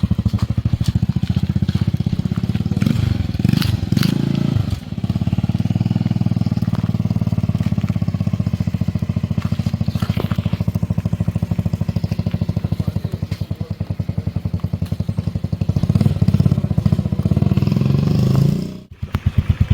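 An engine running with a steady, rapid pulsing beat. The sound cuts out briefly near the end, then returns.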